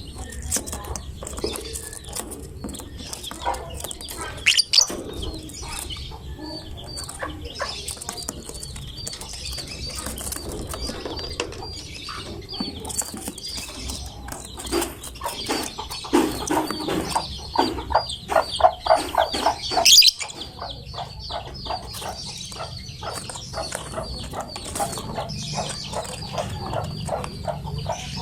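Lovebird chattering song: rapid, shrill chirps in long unbroken runs, faster and loudest past the middle.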